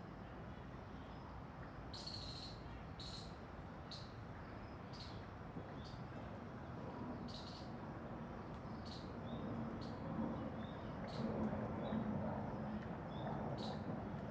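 Birds giving short, high calls, roughly one a second, over a steady background hiss.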